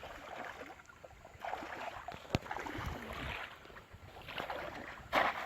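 Water sloshing and splashing in irregular bursts as people wade and fish by hand, with one sharp knock about two and a half seconds in.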